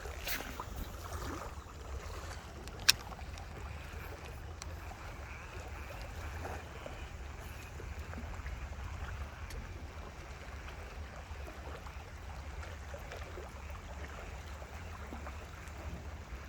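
Outdoor ambience by water: a steady low rumble under a constant wash of water-like noise, with one sharp click about three seconds in.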